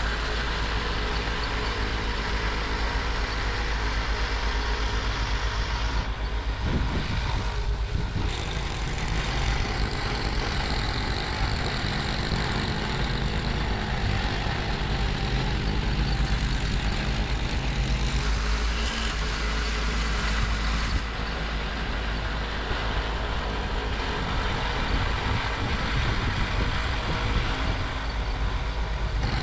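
2004 Toro 826LE two-stage snowblower engine running steadily while clearing snow, with a brief change in its sound about seven seconds in.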